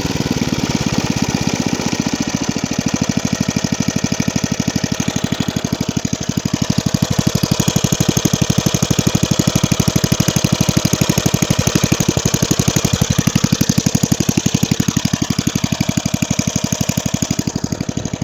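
1979 Briggs & Stratton 5 hp Industrial/Commercial single-cylinder sidevalve engine on a Hayter Hayterette mower, running steadily with an even, rapid firing beat.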